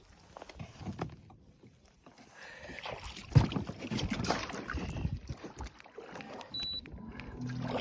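Kayak on water: water splashing and knocks against the hull, with one loud knock about three and a half seconds in. A low steady hum starts near the end.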